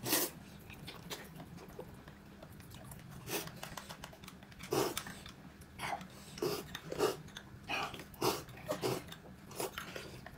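A person eating close to the microphone: irregular chewing, biting and smacking mouth sounds, a short crunch or click every half second to second or so.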